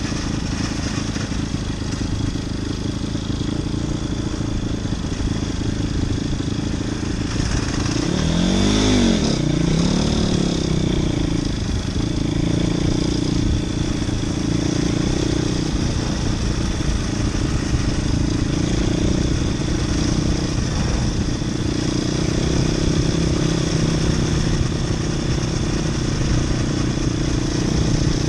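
Motoland RT200 motorcycle engine running while ridden, revved up and back down in quick swings of pitch about a third of the way in, then held at a steadier pitch.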